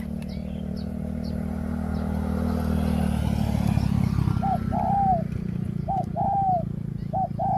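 Spotted dove cooing: three repeated phrases in the second half, each a short coo followed by a longer arched coo. Underneath, the steady hum of a motor vehicle engine swells and changes a few seconds in.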